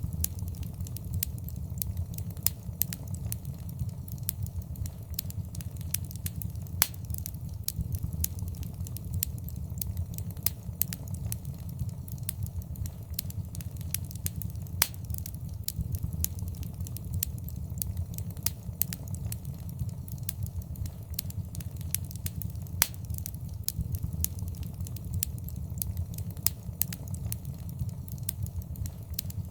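Wood fire burning in a fireplace: a steady low rumble of flames with constant irregular crackles and pops, a few of them sharper and louder.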